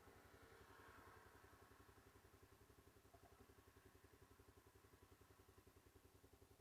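Motorcycle engine idling faintly, with an even low pulsing.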